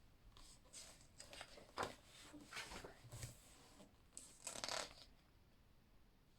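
Pages of a book being turned: several faint paper rustles and flicks, the sharpest about two seconds in and a longer rustle a little past halfway.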